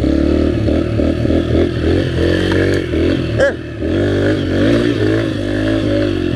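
Dirt bike engine running under way, its revs rising and falling, with a brief drop in revs about three and a half seconds in.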